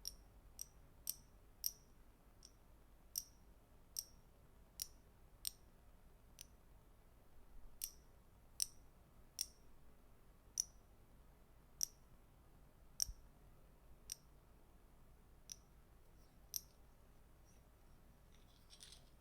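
Soft, sharp clicks from a small hand-held object, one at a time about once a second with uneven spacing, stopping a couple of seconds before the end.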